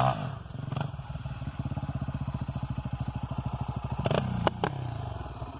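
Honda XR 250 Tornado's single-cylinder four-stroke engine idling with an even, lumpy beat as a rev dies away at the start. A few sharp clicks come about four seconds in.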